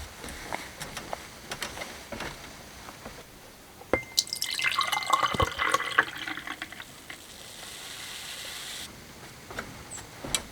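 Water dripping, then poured or splashing for about two seconds, with a steady high tone that starts and stops abruptly over the splashing. A soft hiss follows and stops suddenly.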